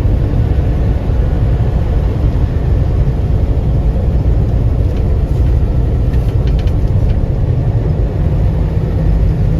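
Steady low rumble of a semi truck's engine and road noise, heard from inside the cab while driving, with a few faint ticks about halfway through.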